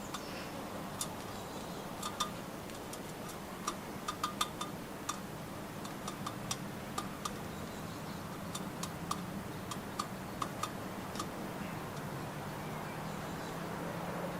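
Irregular sharp taps and clicks of birds pecking at nuts and knocking against the feeder, coming in quick clusters.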